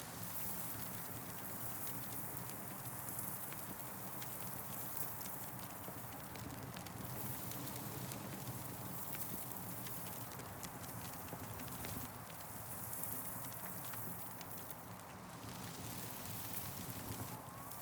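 Campfire crackling, with irregular small pops and snaps over a steady hiss that swells and fades every few seconds.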